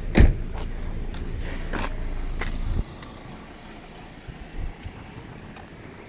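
Honda City car engine idling with a steady low rumble, then switched off about three seconds in. A sharp click comes just after the start, with a few lighter clicks before and after the engine stops.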